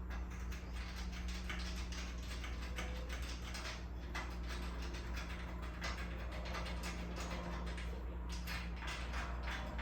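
Ratchet wrench clicking in rapid runs as the bolts holding a miter saw to its stand's mounting bracket are run in, over a steady low hum.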